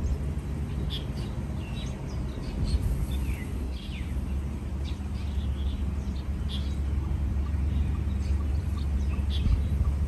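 Small birds chirping in short scattered calls, a few sliding down in pitch about three to four seconds in, over a steady low rumble.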